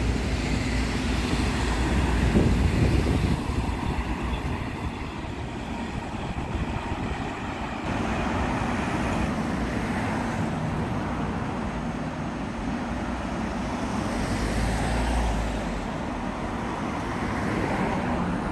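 Trains and road traffic make a steady outdoor rumble. A deeper low rumble swells in the first three seconds and again about fourteen seconds in, and the sound shifts abruptly about eight seconds in.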